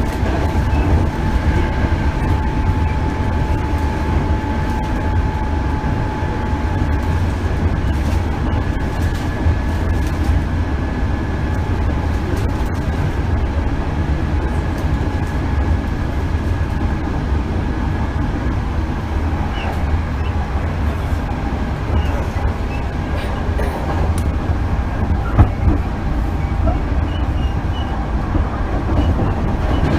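Hankyu 8000 series electric train car running on the line, heard from inside: a steady low rumble of wheels on rail with a faint steady whine above it, and a single sharp knock about 25 seconds in.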